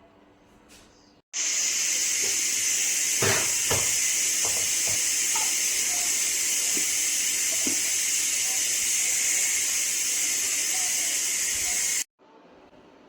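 Steady hiss of running or spraying water, starting and stopping abruptly, with a few knocks and clinks in it.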